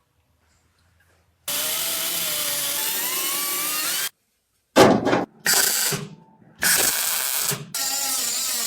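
Workshop power-tool noise in several short stretches broken by brief gaps: a steady noisy run of about two and a half seconds with faint rising whines in it, then three shorter pieces.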